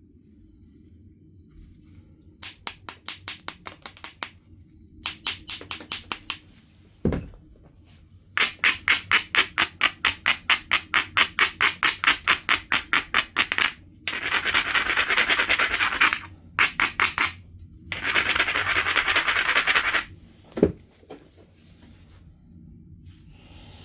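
Edge of a Knife River flint biface being rubbed with an abrading stone: runs of quick scratchy back-and-forth strokes, about five a second, then two longer stretches of continuous grinding. This abrading strengthens the striking platforms before flakes are removed. Two dull thumps come in between.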